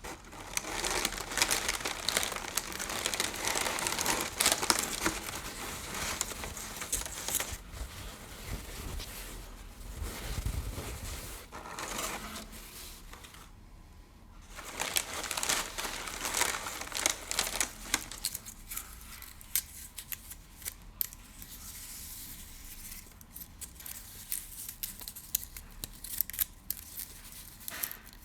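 Crinkly material handled close to the microphone: dense crinkling in bouts for the first half, with a brief break, then lighter scattered crinkles and clicks.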